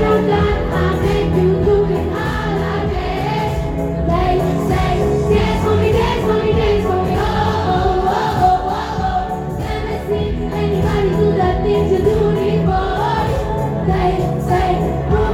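Live pop music: singing over a band with a steady, repeating bass line.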